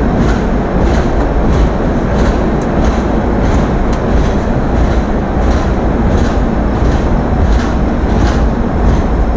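Passenger express train's coach wheels running on the rails as it pulls out of a station, with a loud steady rumble. Light clacks come over the rail joints about twice a second.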